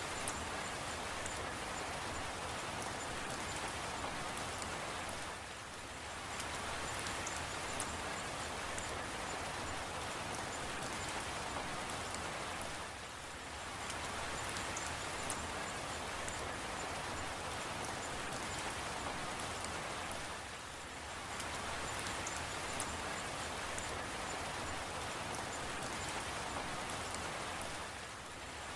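Steady rain falling, with scattered sharp ticks of single drops. It eases briefly about every seven and a half seconds.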